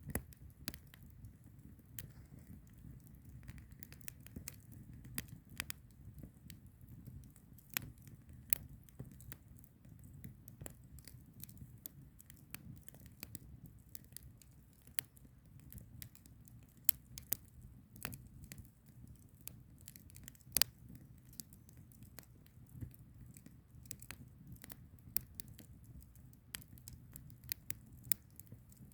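Wood fire burning: irregular sharp crackles and pops from the burning firewood over a low steady rumble of the flames.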